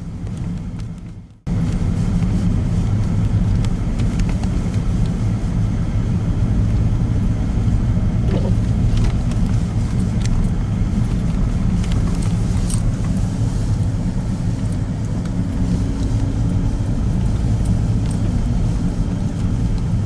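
Car driving: steady engine and road rumble heard inside the cabin. It follows a brief, quieter sound that cuts off abruptly about a second and a half in.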